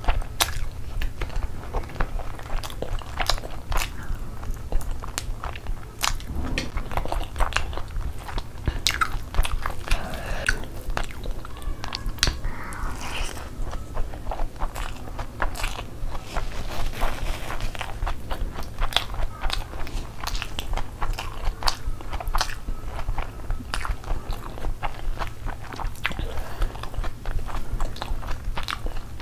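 Close-miked chewing and biting of spicy chicken curry and fried rice, with many short sharp mouth clicks throughout.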